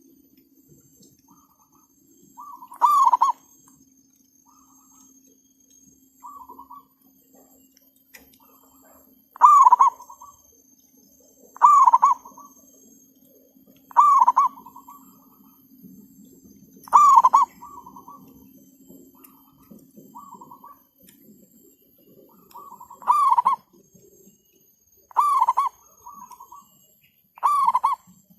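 Zebra dove (perkutut) cooing: loud, short trilled phrases repeated about every two to three seconds, eight in all, with fainter answering calls between them. A steady high-pitched whine and a low hum run underneath.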